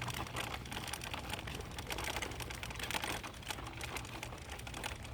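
Dense, irregular clicking and rustling over a low steady hum.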